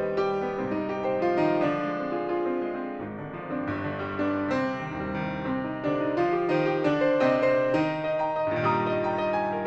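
Solo piano playing a classical piece, with sustained bass chords under a melody line.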